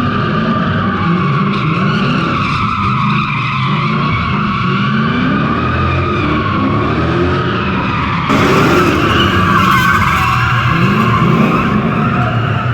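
Straight-piped Toyota 3UZ V8 drift car revving up and down over a continuous tyre squeal as it slides. About eight seconds in, the sound changes abruptly and becomes a little louder.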